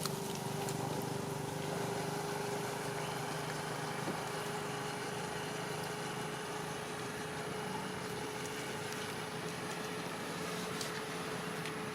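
Steady engine hum with a faint steady tone running through it, and a few faint ticks.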